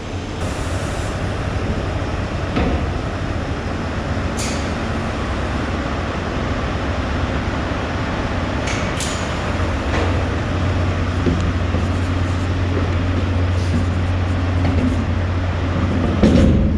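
Loading-bay bin vibrator running with a steady low hum over the plant's machinery noise, shaking the bin so that the last of the load runs out and the bin is empty. The hum grows stronger about ten seconds in, and a few sharp clicks and knocks come through.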